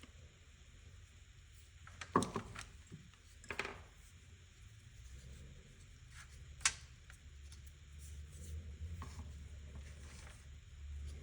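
Small hard parts and tools handled on a workbench during a carburetor clean: a few light clicks and taps, about two, three and a half and seven seconds in, over a low hum.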